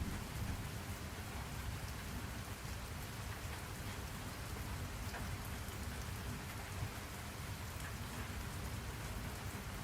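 Steady rain falling: an even hiss with scattered drop ticks over a low rumble.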